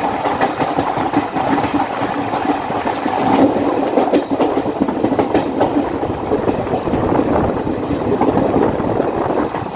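Express passenger train passing close by at speed: a steady loud rush of coaches with rapid wheel clicks over the rail joints.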